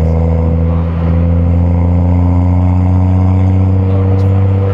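BMW M235i's N55 turbocharged inline-six running under light throttle, a steady low drone heard from inside the cabin, its pitch creeping up slightly.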